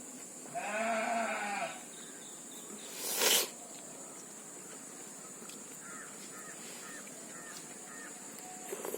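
A goat bleats once, a single call of about a second that rises and falls in pitch. About two seconds later comes a short, louder rushing noise, and a few faint short chirps follow.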